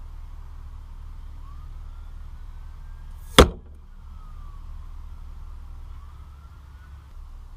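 A single shot from an FX Impact .177 PCP air rifle, a sharp crack about three and a half seconds in, over a steady low rumble.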